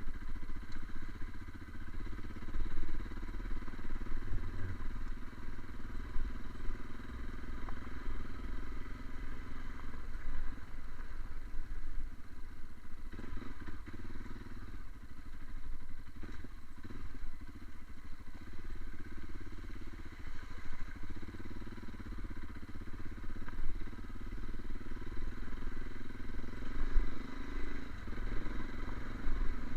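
Fiat Strada pickup on the move: a continuous low engine and road rumble whose loudness rises and falls irregularly.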